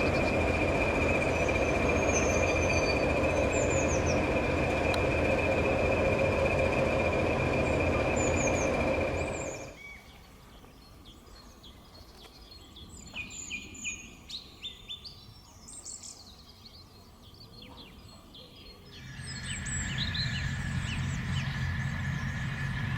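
Steady rumbling running noise with a high whine, cut off suddenly about ten seconds in. Small birds then chirp and twitter in the quiet, until a steady mechanical hum with a tone rises in near the end.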